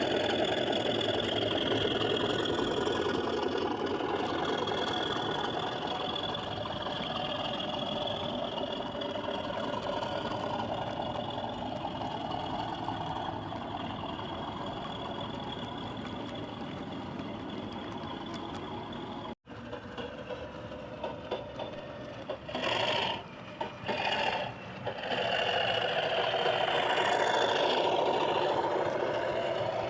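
00 gauge Accurascale Class 37 model diesel locomotive running round the layout with a steady diesel engine sound. The sound cuts out briefly about two-thirds through, then returns in short uneven bursts before steadying.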